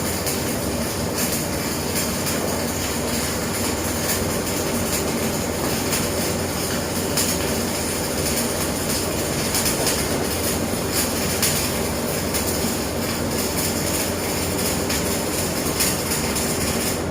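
Electric welding arc running unbroken while a corner weld is laid, a steady dense crackle and hiss.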